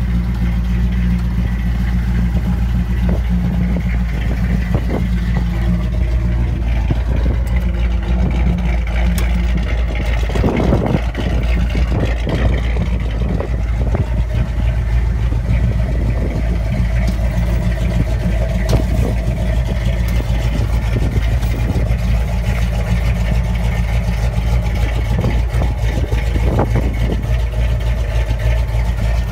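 Cadillac V8 engine in a 1936 Ford pickup hot rod, running at a steady idle.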